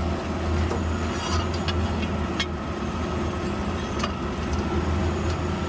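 Garbage truck engine running steadily, a low hum, with a few light clicks about two and four seconds in.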